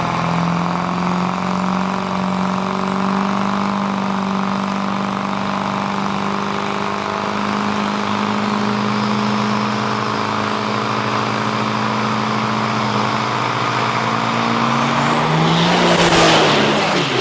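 Diesel drag-racing truck engines running steadily. Near the end, one grows louder with a pitch that rises then falls and a high whistle.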